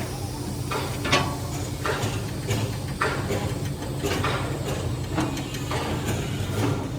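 Metalworking shop noise: a steady low machine hum with irregular sharp metal knocks and clanks every half second to a second.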